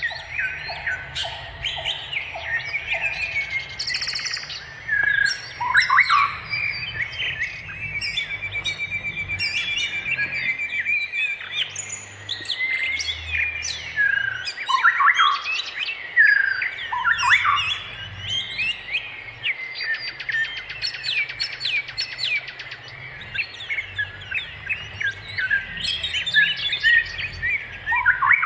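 Several songbirds chirping, whistling and trilling at once, in quick overlapping calls.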